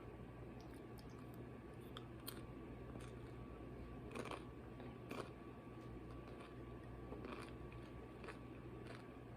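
Faint eating sounds: a person chewing with small mouth and food clicks, and two louder bites or crunches about four and five seconds in, over a steady low hum.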